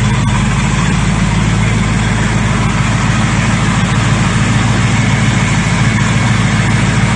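Ford 302 V8 idling steadily, running on its own after its first start following a rebuild, as it warms up.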